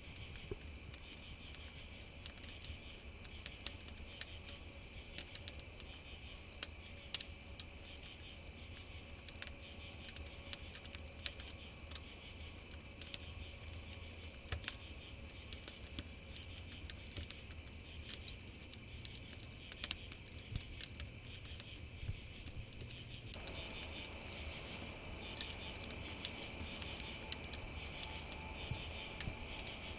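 Crickets chirping in a steady, high-pitched chorus over a crackling wood campfire, with scattered sharp pops throughout and one louder pop about two-thirds of the way in.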